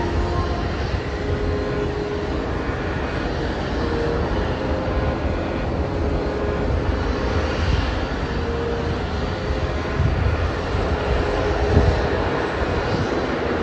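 Airplane engine noise: a loud, steady rush with a low rumble.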